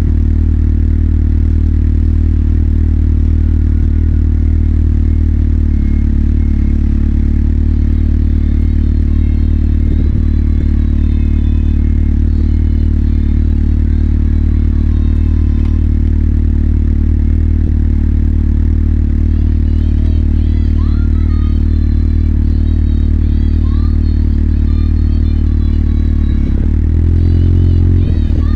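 Motorcycle engine idling at a steady pitch, with a short blip of the throttle near the end.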